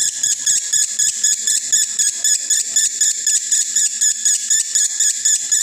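Male lovebird in breeding condition singing a long, unbroken 'konslet' chatter: rapid high chirps, about six or seven a second, running on without a pause.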